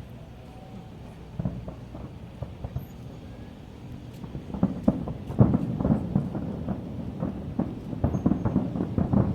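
Fireworks bursting: a few scattered bangs at first, then a dense, louder run of overlapping booms from about halfway through.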